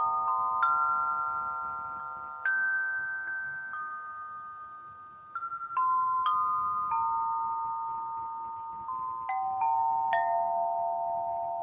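Suspended metallophone (daiva) played slowly, one struck note at a time, each metal bar ringing on and overlapping the notes before it. In the second half the melody steps down in pitch.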